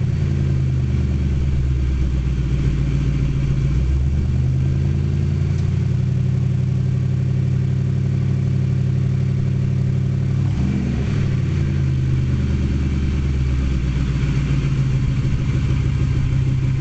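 Exhaust of a 1998 Ford Mustang GT's 4.6-litre V8, running steadily at idle. There are two short pitch changes, one about four seconds in and one about ten seconds in, like light blips of the throttle.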